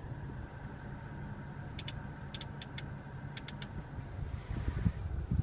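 Light clicks of the infotainment controller knob and console buttons being turned and pressed, in three small groups, over a steady low cabin hum.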